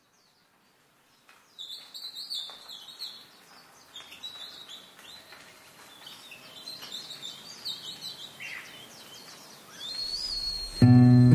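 Birds chirping and calling in many short, varied chirps, starting about a second and a half in. Near the end, music comes in loudly with sustained notes.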